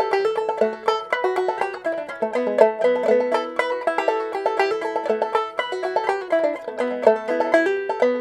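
Five-string banjo played clawhammer style in a modal tuning, capoed up to A: a quick melodic run of plucked notes over a ringing drone string.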